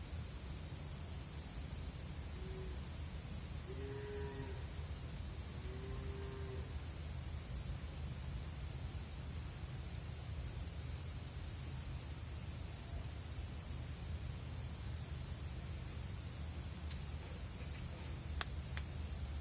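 Night insects calling: crickets keep up a continuous high trill, and another insect adds short chirps in repeated groups. About four and six seconds in come two brief low calls from an unseen animal, and two sharp clicks sound near the end.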